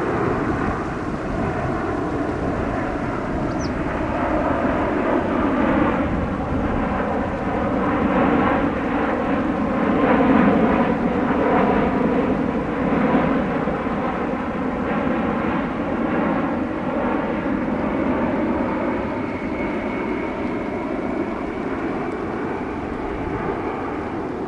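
Boeing 787-9 jet airliner passing close on its approach to land, its engine noise swelling to its loudest about ten seconds in, with pitched tones that bend as it goes by, then slowly easing off.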